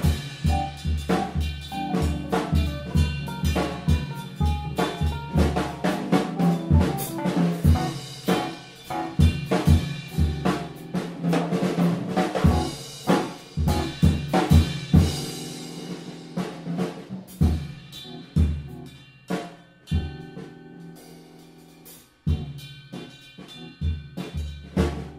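Band music driven by a busy drum kit (snare, bass drum, rimshots) over bass and sustained chords. About twenty seconds in the drums thin out, leaving held notes, then a hit brings them back.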